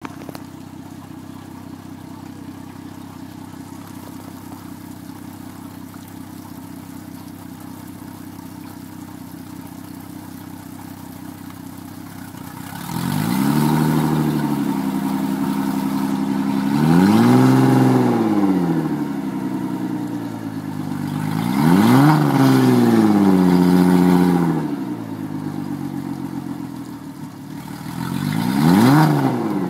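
Suzuki DF225 V6 four-stroke outboard running on a freshwater flush. It idles steadily for about twelve seconds, then is revved several times, its pitch rising and falling with each blip.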